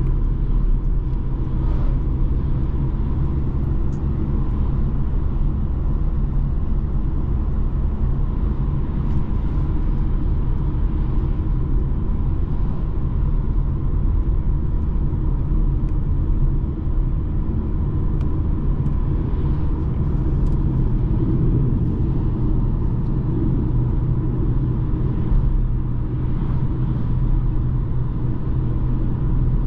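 A BMW 220d xDrive Gran Coupe driving, its four-cylinder diesel engine and tyre noise making a steady low rumble.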